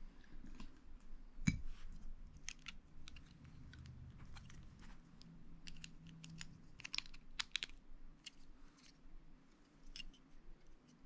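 Small plastic Lego pieces being handled and pressed together, giving scattered sharp clicks with a louder knock about a second and a half in and a quick run of clicks near the middle.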